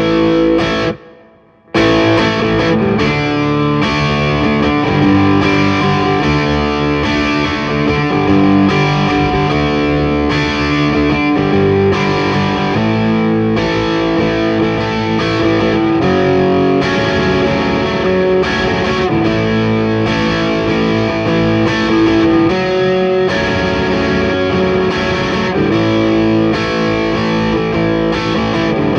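Electric guitar played through distortion and effects, performing an original song. The playing breaks off briefly about a second in, then resumes.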